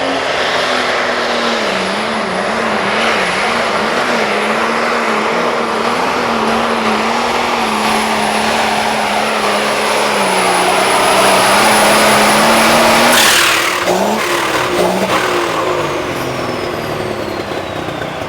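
Light limited super stock pulling tractor's engine running flat out for a pull, with a high turbo whine over it and the level building. About 13 seconds in the engine is shut off abruptly, and the engine and turbo wind down with falling pitch.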